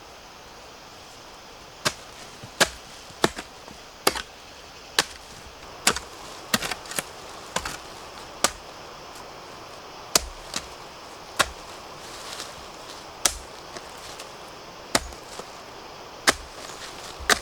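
A blade chopping into bamboo shoots: a run of sharp, separate strikes roughly once a second, some in quick pairs, starting about two seconds in.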